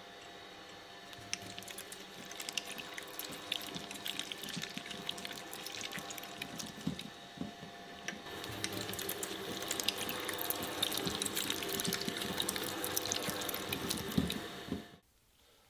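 Electric shredder motor running with a steady hum while material is fed through its blades, giving a dense wet crackling that grows busier about halfway and stops suddenly near the end.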